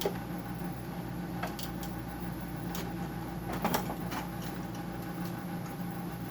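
A nut driver clicking and tapping against the metal nut and cover on a dehumidifier compressor, a few light knocks with a small cluster a little over halfway through. A steady machine hum runs underneath.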